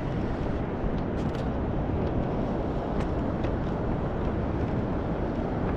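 Steady low rushing noise on the microphone of a camera on a kayak at sea, with a few faint ticks about one, three and three and a half seconds in.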